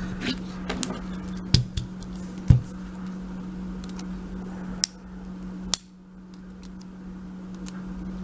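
Scattered sharp metal clicks and clinks of small lock-picking tools and a euro cylinder being handled, about seven in all, over a steady low hum.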